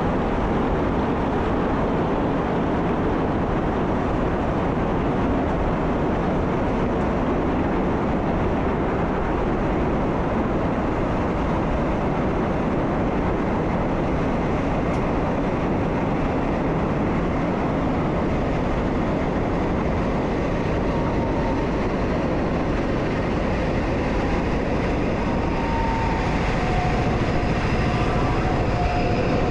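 Train running along the line, heard from the driver's cab: a steady rumble of wheels on rail and running gear. A faint whine comes in during the last several seconds.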